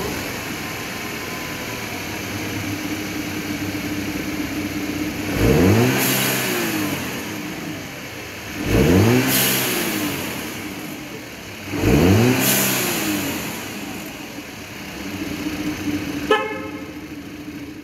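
Audi A5's turbocharged TFSI four-cylinder engine idling, then revved three times, each rev rising and falling in pitch with a hiss near its top from the newly fitted aftermarket blow-off valve venting.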